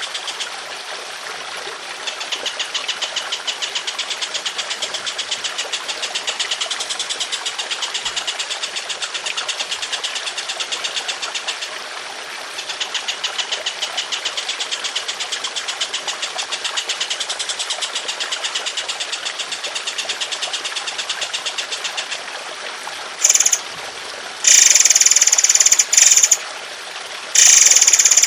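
Songbird masteran calls: a long, fast, buzzing rattle that breaks briefly about twelve seconds in, then several loud, harsh bursts of calling near the end.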